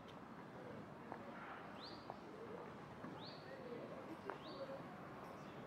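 A bird calling faintly: three short rising chirps about a second apart.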